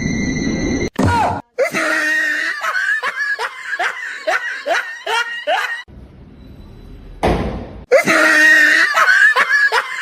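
A person laughing hard in quick repeated bursts, about three a second, each dropping in pitch, breaking off briefly midway and starting again.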